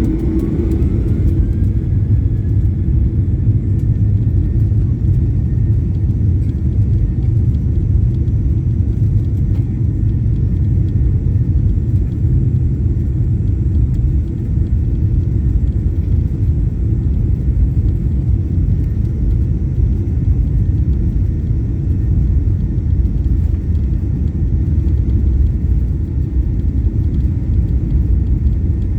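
Cabin noise of a Boeing 737-800 with CFM56 engines: a loud, steady rumble, with a faint engine whine that rises in pitch over the first couple of seconds and then holds steady.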